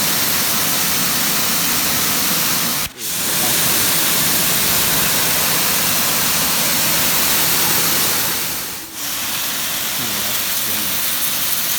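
Adam's electric pressure washer spraying a jet of water through a yellow nozzle, a loud steady hiss. The spray breaks off for a moment twice, about three seconds and nine seconds in.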